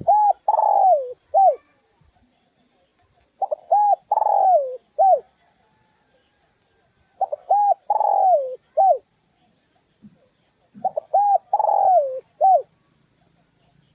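Spotted dove cooing: four phrases about three and a half seconds apart. Each is a couple of short coos, one longer coo that falls and rises again, and a short closing note.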